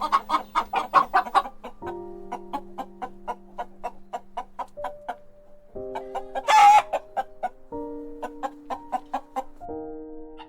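Domestic hen clucking in short repeated clucks, with one louder squawk a little past halfway.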